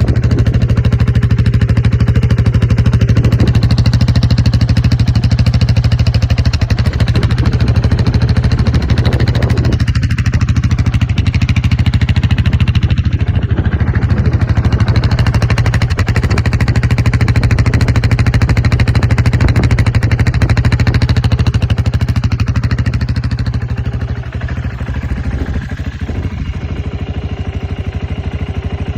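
Husqvarna TR650 Terra's single-cylinder engine idling steadily, a little quieter near the end.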